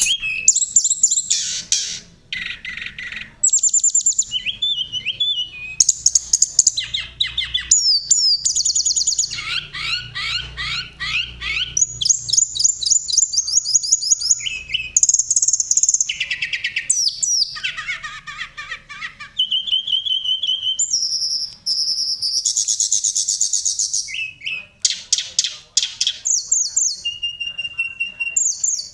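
Tledekan gunung (sulingan) songbird singing hard, a fast run of high trills, rattling phrases and clear whistled notes, one phrase after another with only brief pauses.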